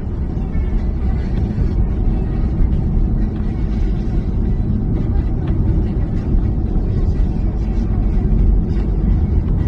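A car driving along a road: a steady, loud, low rumble of tyres and engine with no changes.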